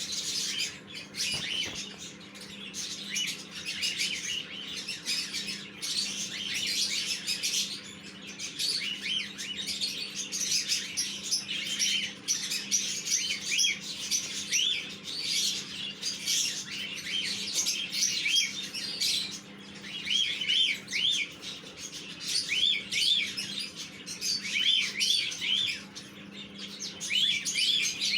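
Lovebirds chirping continuously, a rapid stream of short, high chirps that rise and fall.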